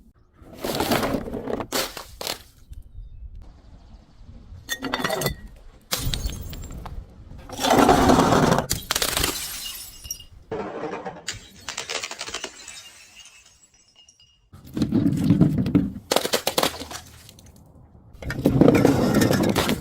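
Glass breaking and being crushed in a series of separate shattering, crunching bursts, about six in all, the loudest about eight seconds in.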